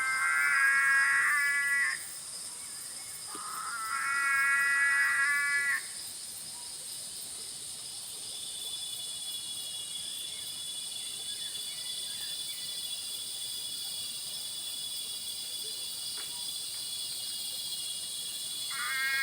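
A dusk chorus of frogs, two loud bouts of rapid, pulsing calls in the first six seconds, over a steady high-pitched insect buzz that carries on alone for the rest of the time.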